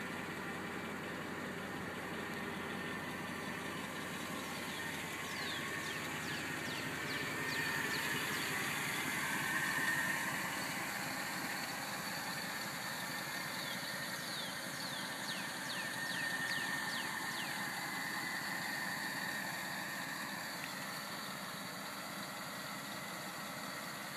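Mercedes-Benz CLS idling steadily. Twice, a run of short high falling chirps sounds over it.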